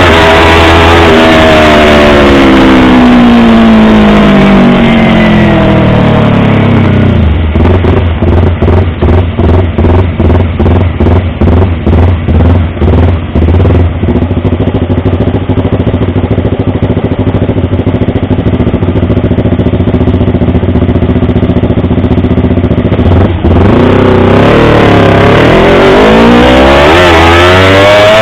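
Yamaha R25's parallel-twin engine and exhaust: the revs fall over the first seven seconds or so, it runs low and steady with a regular pulsing for about fifteen seconds, then revs climb again near the end.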